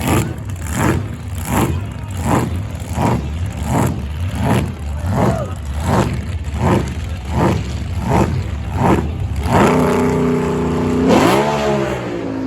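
Racing jet boat engines, their sound pulsing regularly about every three-quarters of a second. About ten seconds in this gives way to a steady engine drone, which rises and falls in pitch briefly near the end.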